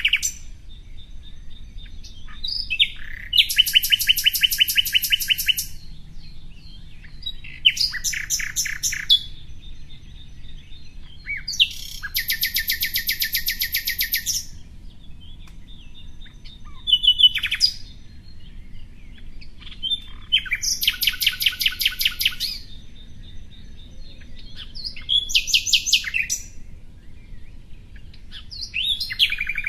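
A songbird singing: high, fast trills of rapidly repeated notes, each lasting one to two seconds and coming about every four seconds, with short chirps in between.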